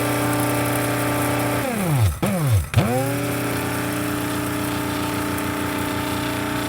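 Electric coffee grinder motor running with a steady, pitched hum. A little under two seconds in, its pitch drops sharply almost to nothing, dips twice and swoops back up to the same steady hum within about a second.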